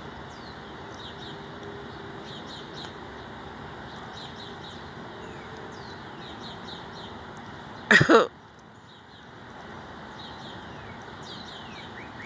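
Small birds chirping, with repeated short chirps and quick falling notes, over a steady background hiss. About eight seconds in there is one loud, harsh sound lasting under half a second.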